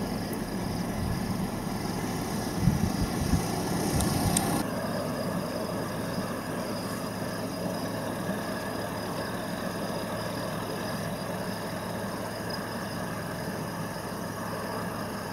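A vehicle engine idling steadily. Low rumbles, like wind buffeting the microphone, come and go over the first four seconds or so.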